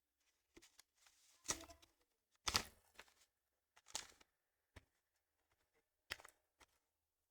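Faint eating sounds: about five short, sharp crunching noises a second or so apart, with a few small clicks between them.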